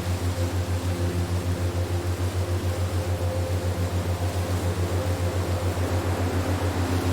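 Ambient relaxation soundtrack: a low hum pulsing about six times a second under an even, wind-like hiss, with soft held tones fading in and out above it.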